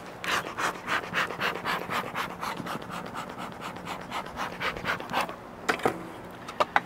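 Dog panting rapidly, about four to five breaths a second, stopping about five seconds in.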